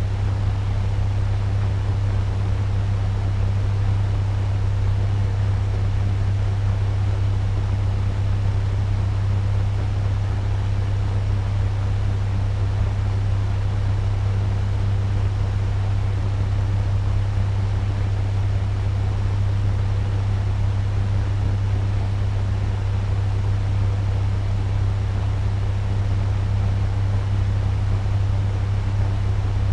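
Turbo fan running at medium speed: a steady, even rush of air over a strong low motor hum.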